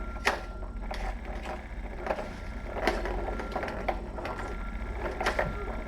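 Kittens playing, making scattered light clicks and knocks, about six in a few seconds, over a steady low hum.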